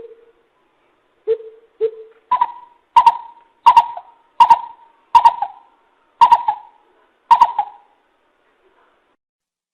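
Greater coucal calling: a few low hoots, then a series of about seven louder, higher-pitched hoots, spaced a little under a second apart, that stop well before the end.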